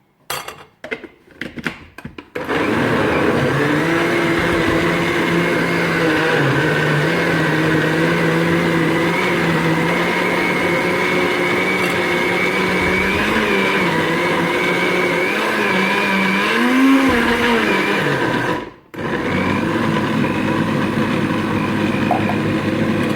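Electric kitchen blender running, chopping kale leaves and water into a puree. A few knocks come in the first two seconds, then the motor starts, its pitch wavering as the load shifts. It cuts out briefly a few seconds before the end, then runs again.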